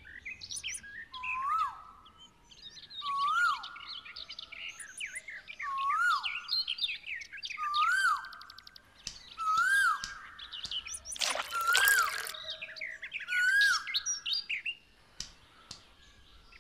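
Birds chirping and calling. One bird repeats a short whistle that rises then falls, seven times at about two-second intervals, over many quick high chirps. There is a brief noisy swish about eleven seconds in.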